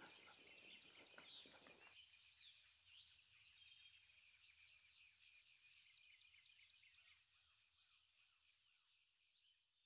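Near silence: faint outdoor ambience with small bird calls, fading out over the first several seconds.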